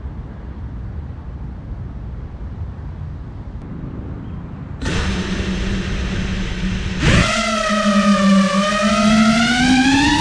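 FPV racing quadcopter's brushless motors: low wind rumble at first, then about halfway in the motors start with a steady hum, and near the end of the first two-thirds they sweep sharply up into a loud whine that wavers in pitch as the throttle changes.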